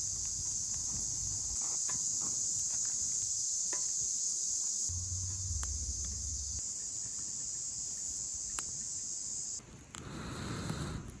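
Insects chirring steadily at a high pitch, with scattered sharp clicks. The insect sound cuts off suddenly near the end, and a short, lower rustle follows.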